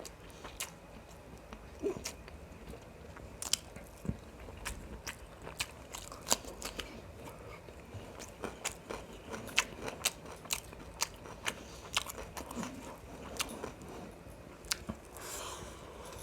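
Close-miked chewing and eating of biryani and mutton: a stream of sharp, irregular wet mouth clicks, a few each second, with a brief louder smear of sound near the end.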